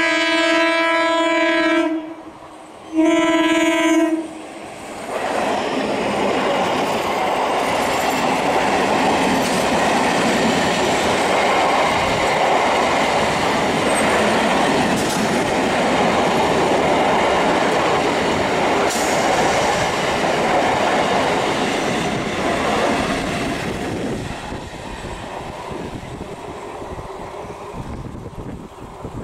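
An ICF Medha EMU local train's horn sounds twice, a long blast and then a shorter one. The train then runs past at speed with a loud steady rush of wheels on rails, which dies away near the end.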